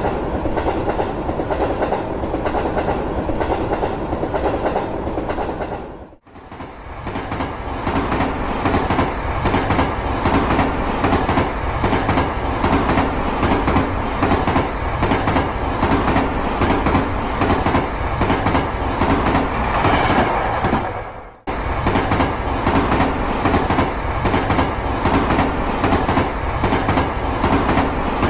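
Plarail toy freight train with two EF65 locomotives running on plastic track: small battery-driven motors and gearing running, with a fast, steady clicking rattle of the wheels and cars. The sound cuts out briefly twice, about six seconds in and again about twenty-one seconds in.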